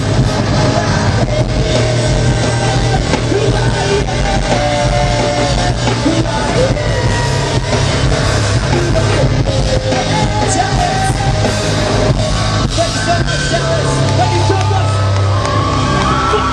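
Loud live rock band playing: distorted electric guitars, bass and drums, with shouted vocals.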